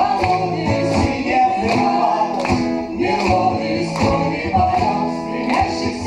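Acoustic guitar playing a song's accompaniment, with a sung melody line over it.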